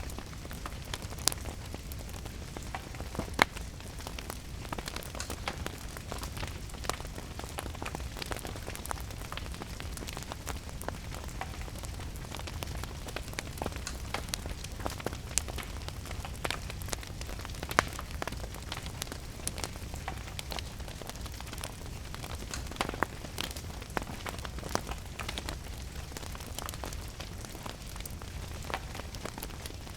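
Fireplace fire crackling with frequent sharp pops, over steady rain and a low rumble.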